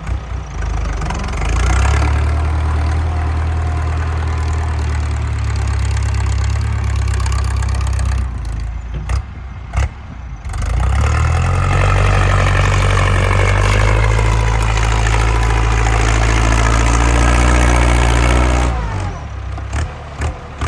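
Ford 6640 tractor engine with a loud exhaust working hard under load while pushing dirt. It pulls in two long stretches: the first eases off about eight seconds in with a few clicks, then the engine picks up again and climbs slightly in pitch before dropping back near the end.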